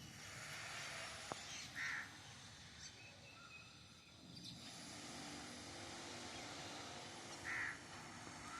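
Garden birds calling: two short, loud calls about six seconds apart, with fainter chirps between them and a single sharp click shortly before the first call.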